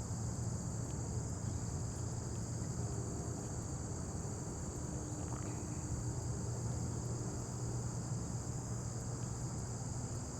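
Steady, unbroken chorus of crickets trilling, with a steady low hum underneath.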